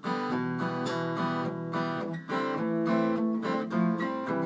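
Acoustic guitar strummed in a quick, driving rhythm, with no singing.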